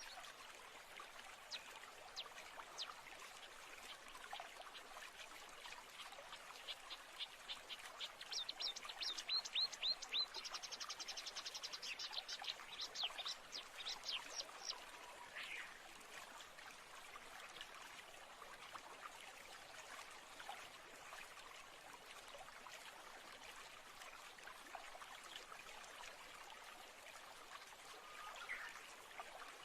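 Nature ambience of steadily running water, like a stream, with birds calling. About seven seconds in, a bird gives a fast run of repeated chirps and a trill lasting several seconds, and single calls come now and then afterwards.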